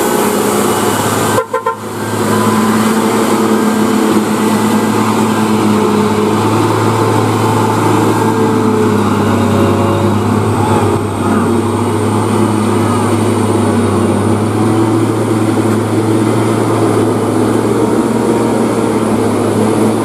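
A heavily loaded tronton truck running steadily under load, a deep even drone. The sound breaks off briefly about a second and a half in.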